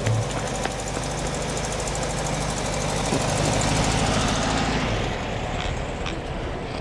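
Volkswagen Beetle's air-cooled flat-four engine running at low speed as the car drives slowly past, growing louder as it goes by about four seconds in, then fading.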